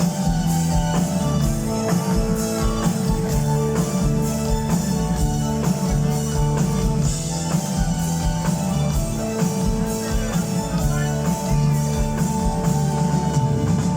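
Live rock band playing an instrumental intro: guitars holding sustained chords over a steady drum-kit beat, with loud hall reverberation.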